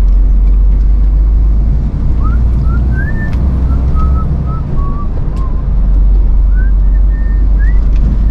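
Lorry engine running with a steady low drone heard inside the cab. From about two seconds in, a short tune is whistled over it, note by note.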